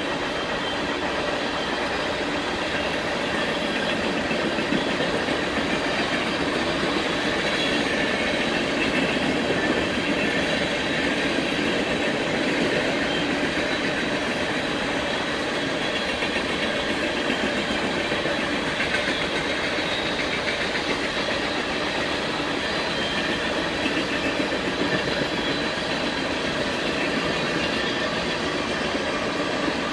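Union Pacific coal train's hopper cars rolling past, their steel wheels running steadily on the rails.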